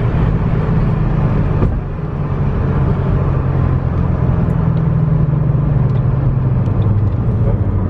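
A car engine running steadily close by, its pitch climbing a little and then sinking again in the second half.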